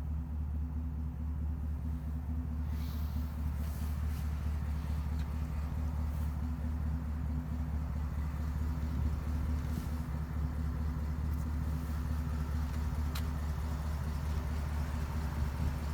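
Steady low engine rumble of a GMC Sierra AT4X pickup, with a few faint clicks now and then.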